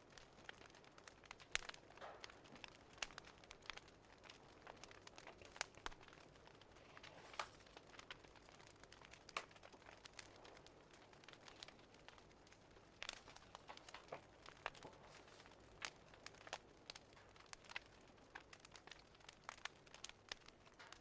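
Faint wood fire crackling, with irregular sharp pops and snaps over a soft hiss.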